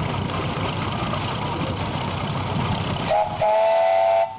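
Steam whistle blowing one short blast of about a second, starting about three seconds in and cutting off sharply. Before it, a steady mechanical rumble of running machinery.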